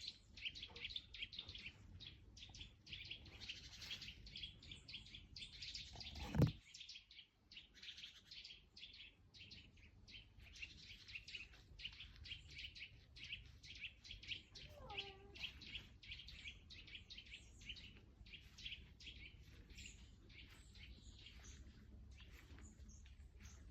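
Many small birds chirping and twittering in quick, overlapping calls, with a single low thump about six seconds in.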